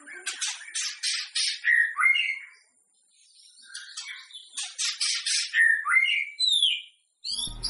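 White-rumped shama (murai batu) singing: runs of harsh, scratchy notes each ending in a couple of short slurred whistles, with a brief pause about three seconds in before the phrase repeats. Music comes in near the end.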